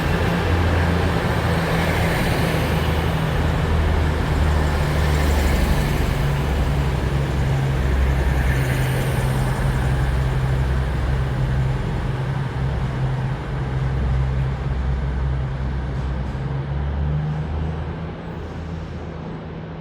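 Class 222 Meridian diesel multiple unit's underfloor diesel engines running with a loud, steady low drone, which fades gradually over the last several seconds as the train moves away.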